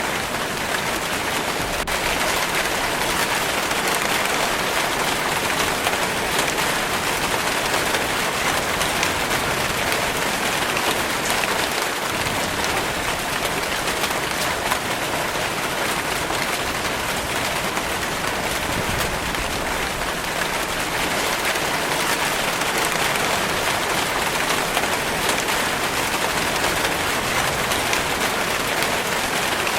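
Steady rainfall hissing on a surface, a dense patter of drops.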